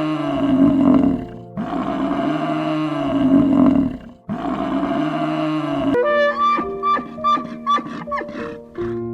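A large wild animal roaring, the same roar heard three times in a row, each call about two and a half seconds long. About six seconds in it gives way to music made of short separate notes.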